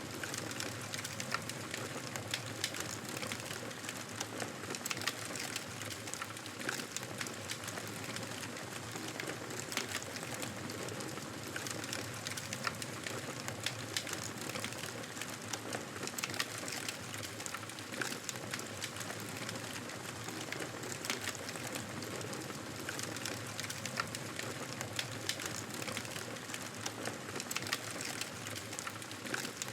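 Wood fire burning in a fireplace: a steady hiss of flames with frequent irregular crackles and pops.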